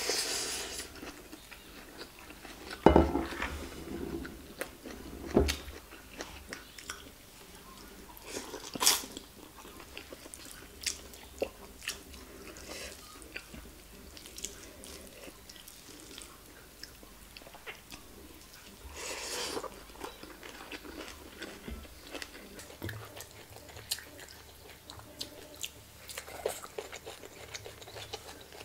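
Close-miked chewing and wet mouth sounds of a person eating rice with fried egg and stir-fried greens, with scattered small clicks as fingers pick food from the plate. A louder thump about three seconds in.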